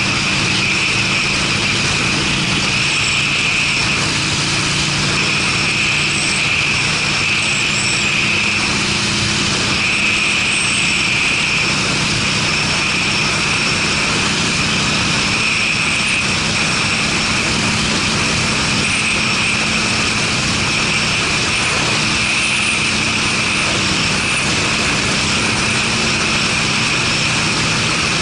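Harley-Davidson Sportster V-twin engine running steadily through aftermarket Screamin' Eagle mufflers while riding, with wind rushing over the microphone.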